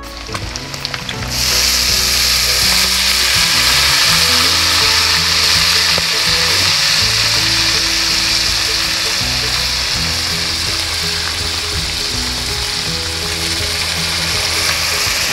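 Chopped chiton meat and green chilies sizzling in oil in a pan. The hiss jumps louder about a second in, then holds steady. Background music with sustained low notes runs underneath.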